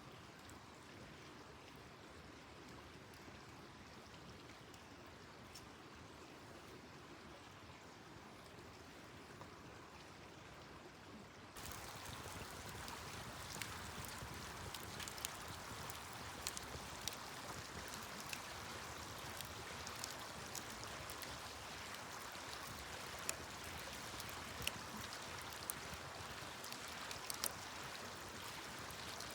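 Wood campfire crackling: a steady hiss of burning with scattered sharp pops and snaps. About twelve seconds in it cuts to a closer, louder take with more frequent pops.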